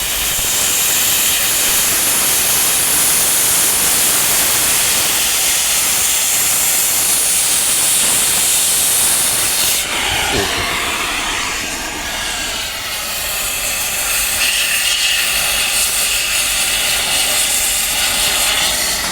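Loud, steady hiss of rushing air or gas that goes on without a break. Its character shifts about ten seconds in.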